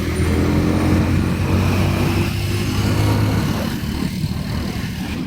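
Vehicle engine running in road traffic during a motorcycle ride. A steady low engine drone is strongest for the first three and a half seconds, then fades into general traffic noise.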